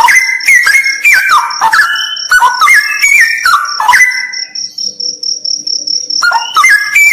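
Straw-headed bulbul singing loud phrases of stepped, falling whistles. It pauses for about two seconds in the second half, then starts again, over a steady, pulsing high insect trill.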